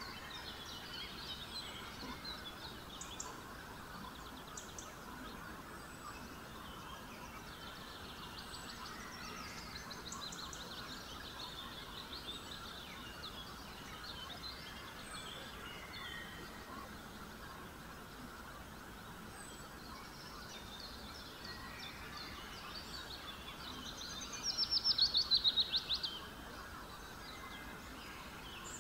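Small birds chirping on and off over faint steady background noise, with a louder run of rapid chirps near the end.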